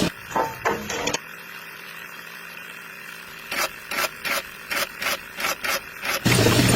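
Small electric motor of a DIY mini concrete mixer shuts off at the start, followed by a few knocks. A series of about ten sharp taps comes in the quiet middle, then the motor starts up and runs again near the end.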